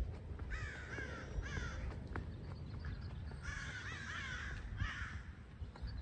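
A bird calling with harsh caws in two pairs, one about half a second in and one around three and a half seconds in, over a low rumble.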